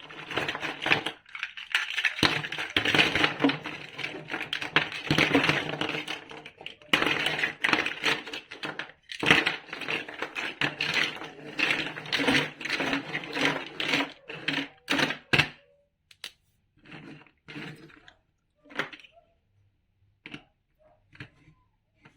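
Plastic building blocks clattering and rattling against each other in a dense, continuous jumble for about fifteen seconds. After that come scattered single clicks and knocks of pieces being handled.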